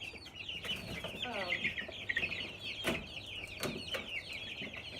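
A group of young chickens peeping and chirping continuously in quick, high, downward notes. Two sharp knocks come about three seconds in and a little after.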